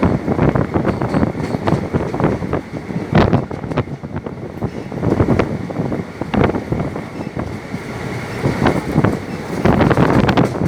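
Train running along the track: a dense, loud rumble with irregular clattering knocks from the wheels and carriages, and wind buffeting the microphone.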